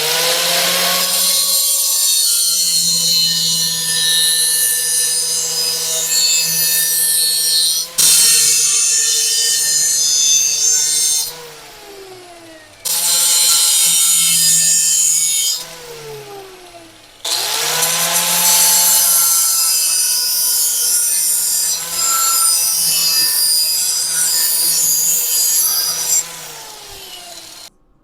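Handheld electric grinder stripping paint off steel: the motor spins up, runs steadily with a harsh rasping hiss for several seconds, is let off and winds down with a falling whine, and is started again, three runs in all.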